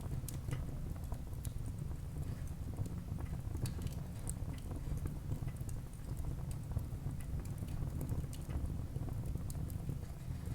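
Wood fire crackling in a fireplace: irregular sharp crackles and small pops over a low, steady rumble.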